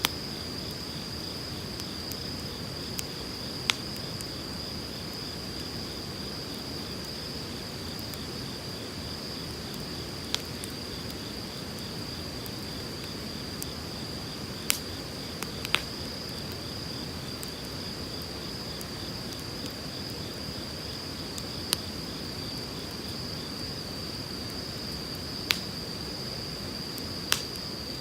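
Wood fire crackling, with sharp pops about seven times, over the steady rush of a flowing river. A continuous high-pitched insect trill runs underneath.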